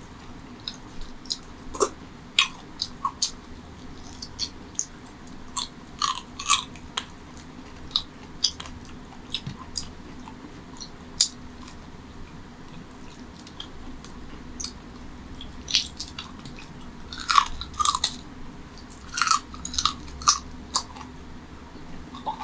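Close-miked eating of mutton curry by hand: chewing and biting, with irregular wet smacks and clicks that come thickest near the end.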